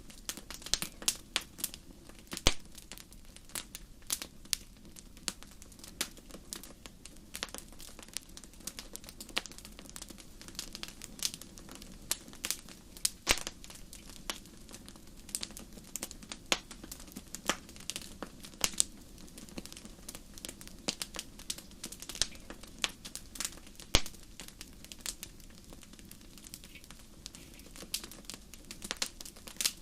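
Campfire crackling: irregular sharp pops and snaps, a few much louder than the rest, over a low steady rush of the burning fire.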